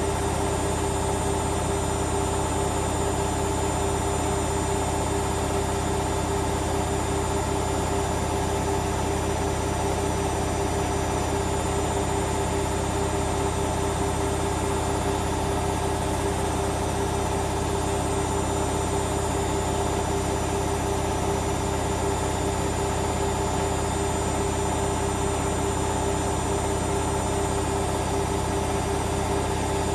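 Hoover Vision Dynamic washing machine running at a constant speed, a steady motor hum with a held whine and no change throughout.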